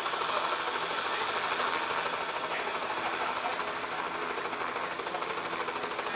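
Air-Evac medical helicopter running on the ground, its rotor blades picking up speed ahead of lift-off: a steady rushing noise with a faint low hum underneath.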